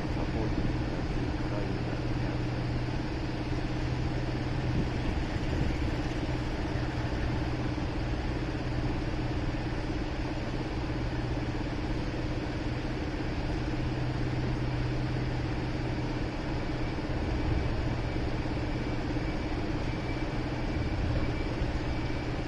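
Motorcycle engine running at a steady, even pitch, heard from on board, with a steady wash of city traffic noise around it.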